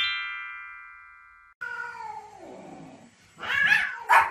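A chiming tone rings and fades over the first second and a half. A pet animal then gives a long, drawn-out cry that falls in pitch, followed near the end by two short, loud yowling calls.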